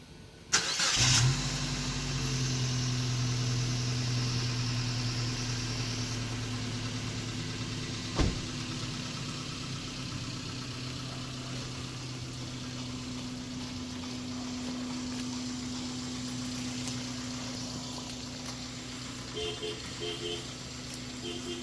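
Suzuki APV minivan's four-cylinder engine on a cold start: it cranks and catches about half a second in, runs a touch faster for a moment, then settles into a steady idle. A single sharp click about eight seconds in.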